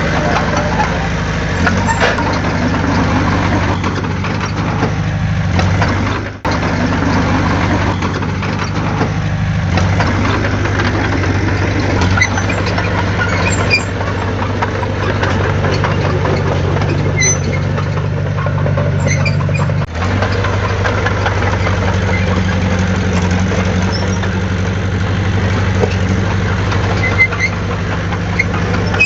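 Diesel engine of heavy earthmoving machinery running steadily, with brief drops about six seconds in and again about twenty seconds in.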